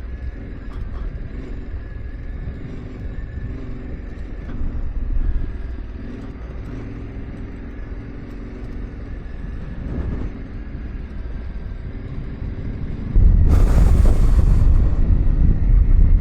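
Yamaha Ténéré 700's parallel-twin engine running at low, steady revs on a rough dirt trail, with a low rumble underneath. About thirteen seconds in, a sudden loud rushing noise comes in and drowns the engine.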